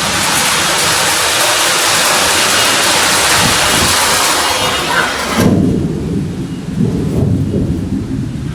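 Heavy hail and rain pelting down in a loud, steady hiss. About five seconds in the hiss cuts off abruptly and a low rumble is left.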